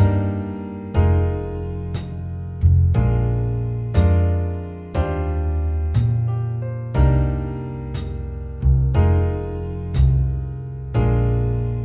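Jazz backing track with piano chords struck about once a second at a slow 60 bpm, and bass notes underneath.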